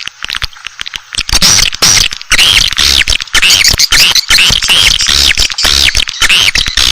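Edible-nest swiftlet calls from a lure recording of the kind played to draw swiftlets to nest: fast chittering twitters made of rapid clicks and repeated arching chirps. They are quieter for about the first second, then loud and dense.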